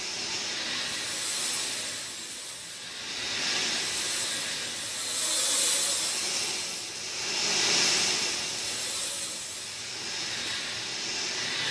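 Steady rainfall, a continuous hiss of falling rain that swells and fades every couple of seconds.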